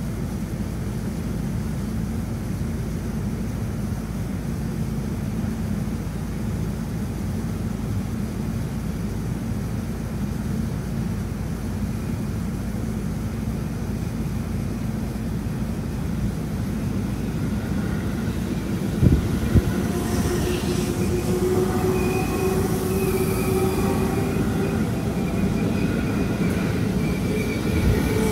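Seibu electric commuter train approaching along elevated track and running past: a steady low rumble, two sharp knocks about two-thirds of the way in, then a whine of several tones, the lowest slowly rising in pitch, as the train draws level and its cars run by.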